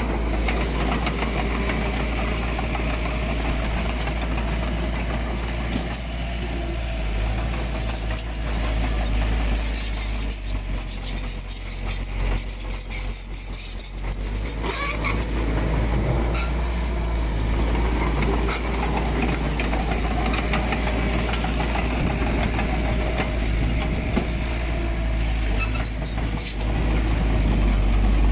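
Heavy diesel earthmoving machinery running steadily, with a deep low rumble. Metallic clinks and rattles come through in the middle and again near the end, and the engine grows louder near the end.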